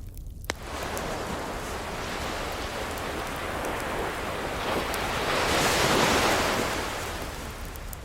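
Ocean surf, one wave swelling to a peak about six seconds in and then washing back down, over a steady rush of water. A sharp crackle from a wood fire about half a second in, with faint fire ticks throughout.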